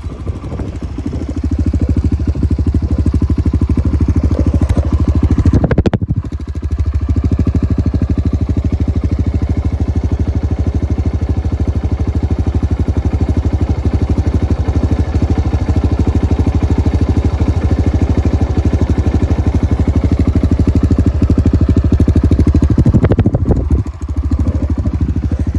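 Honda CRF125F's single-cylinder four-stroke engine running through an FMF aftermarket exhaust, holding a steady idle, with a brief throttle blip about six seconds in and another near the end.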